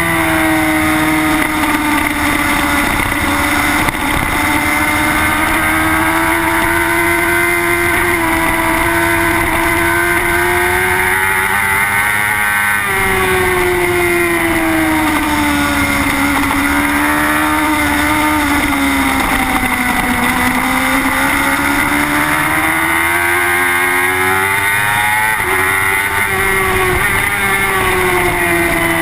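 Onboard sound of a Suzuki GSX-R superbike's inline-four engine at racing speed. The engine note climbs and falls again and again as the throttle is worked, with sudden drops in pitch from gear changes.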